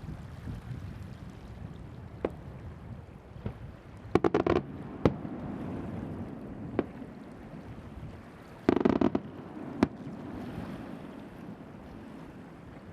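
Signal fireworks going off: two volleys of rapid crackling bangs, about four seconds in and again about nine seconds in, with single sharp bangs scattered between them, over steady wind and surf noise.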